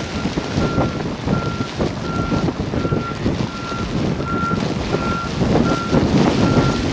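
Vehicle reversing alarm beeping in a steady on-off rhythm, roughly three beeps every two seconds, over a continuous low rumbling noise.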